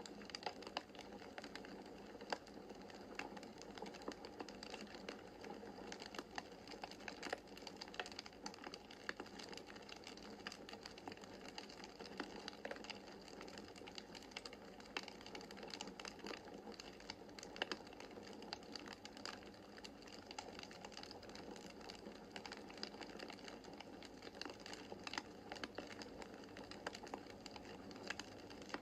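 Wood fire crackling in a fireplace: a soft, steady rush of burning with many irregular sharp pops and snaps from the burning logs.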